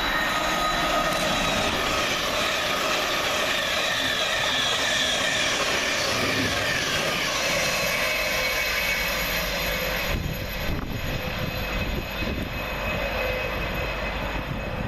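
A Thameslink Class 700 electric multiple unit running past. There is a steady rush of wheel and air noise, with several whining tones from its traction equipment that slowly fall in pitch. The sound gives way to a lower rumble with a few knocks in the last few seconds.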